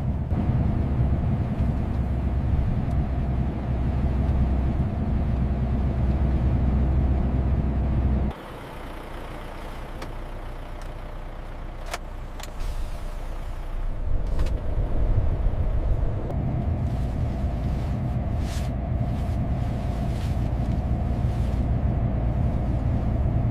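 Big truck's engine running with a steady low drone that cuts off suddenly about 8 seconds in. A quieter stretch with a few sharp clicks follows, then the engine rumble builds back up and runs steadily.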